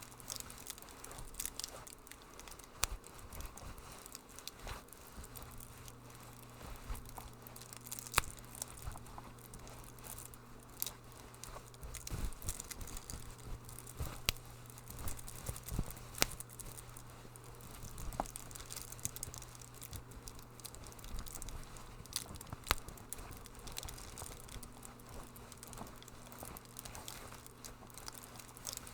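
Wood fire crackling, with irregular sharp pops and snaps, several of them louder than the rest, over a faint steady low hum.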